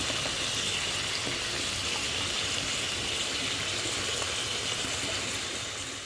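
Salted shark with chilies and tomato sizzling and bubbling in oil and juices in a wok: a steady hiss that fades away near the end.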